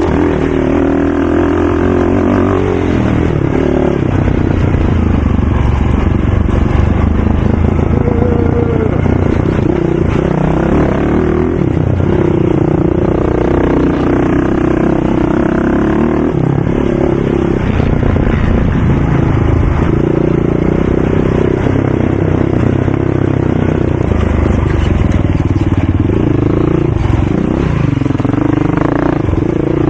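ATV engine running, its pitch rising and falling as it revs up and eases off.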